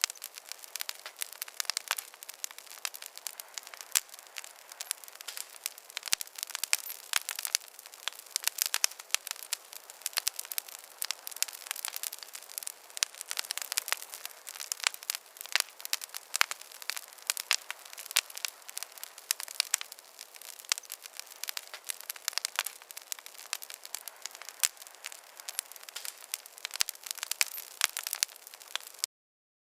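Wood campfire burning, crackling steadily with dense, irregular small sharp pops and no low rumble. Near the end the sound cuts out to silence for about half a second.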